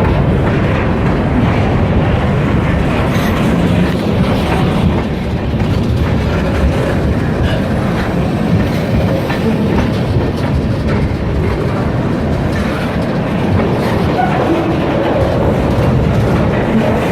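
Freight train rolling past steadily, its cars running on the rails.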